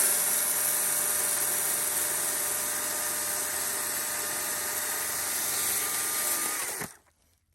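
Power saw motor running at a steady speed with a constant high whine, cutting off suddenly near the end.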